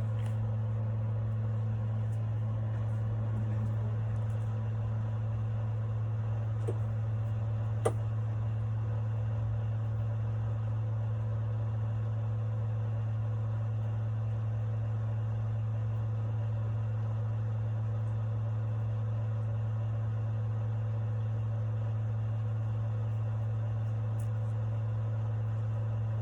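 A steady, unchanging low machine hum, with one sharp click about eight seconds in.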